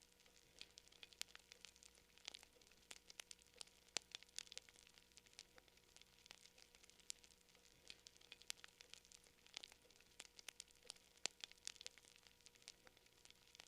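Campfire crackling: irregular sharp pops and snaps, several a second, over a faint steady hiss.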